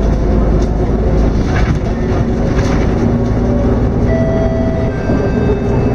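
Scania K230UB city bus heard from inside the cabin while under way: steady engine and road rumble with interior rattles and clicks, and a brief steady whine about four seconds in.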